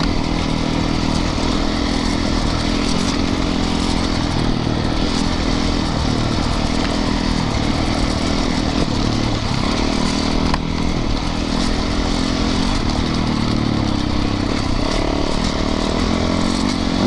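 Yamaha YZ450FX's single-cylinder four-stroke engine running at a steady trail pace, with wind and the rattle of the bike over rough ground. A single sharp knock about ten seconds in.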